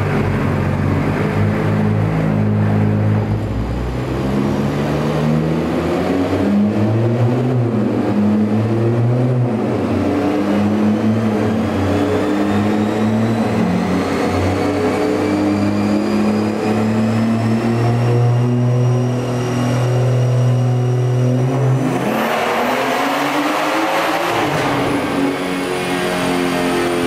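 BMW F30 3 Series sedan run on a chassis dynamometer. The engine works up through the revs, then makes a long full-throttle pull with a whine rising steadily in pitch. About 22 seconds in the throttle is released: a sudden rush of noise, and the revs and rollers wind down.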